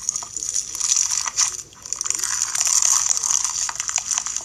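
Fishbowl slime being squeezed and worked by hand: dense crunching and crackling of the plastic fishbowl beads with sharp clicks and pops, easing off briefly a little under two seconds in.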